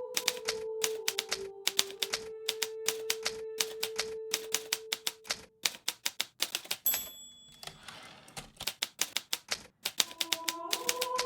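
Hermes Baby portable typewriter being typed on, the keys striking in quick irregular runs. About seven seconds in a short high ring sounds, the typewriter's end-of-line bell, followed by a brief rasping sweep as the carriage is returned, and then the typing resumes.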